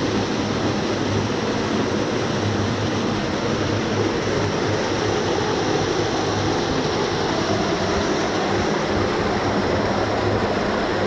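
Steady rush of falling water, a continuous even noise that holds at one level throughout.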